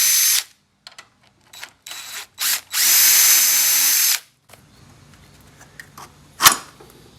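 Handheld power drill spinning fasteners: it runs briefly at the start and stops, gives a few short blips, then makes a longer run of about a second and a half, its motor whine rising and then holding steady. A single sharp clank of metal comes near the end.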